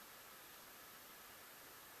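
Near silence: steady faint hiss with a thin high-pitched whine.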